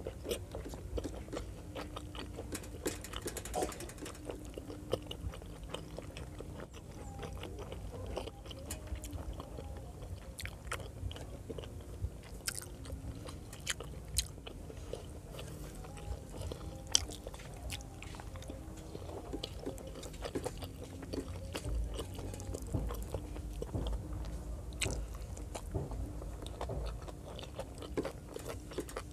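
Close-miked chewing and mouth sounds of someone eating rice and pork adobo by hand: many small wet smacks and clicks throughout.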